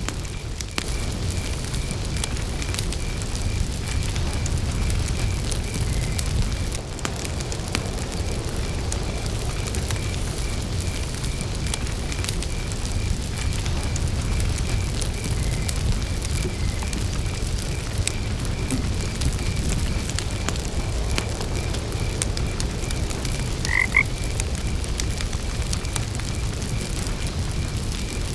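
Campfire crackling over a low rumble, with crickets chirping in an even pulse and one short frog croak near the end.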